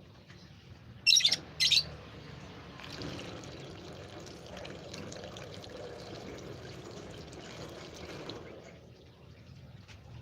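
Two loud, short, high-pitched bird calls about a second in, half a second apart, over a continuous rushing noise that swells for about five seconds and then fades near the end.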